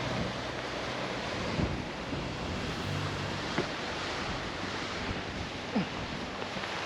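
Steady rushing noise of the glacial river flowing through the canyon, mixed with wind on the microphone, with a few light ticks.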